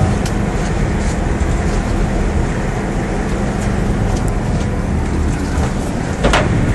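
Fishing boat's engine running steadily: a loud low rumble with a constant hum. A brief sharp sound cuts through near the end.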